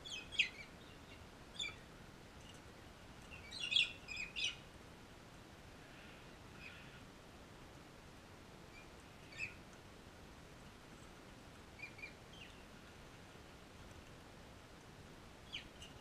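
Birds calling in short, sharp chirps, a few together at a time. The loudest group comes about four seconds in, with scattered single calls after.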